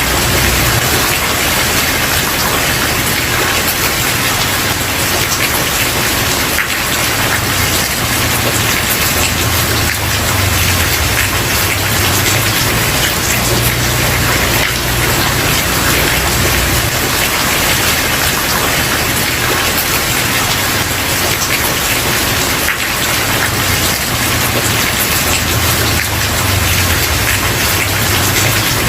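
Steady heavy rain falling on a wooden porch, a dense hiss of many drops with a low rumble that swells and fades every few seconds.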